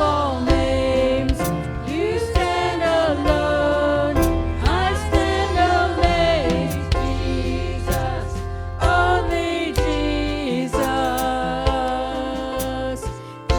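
Music with singing over a steady low accompaniment, punctuated by short sharp strikes like percussion.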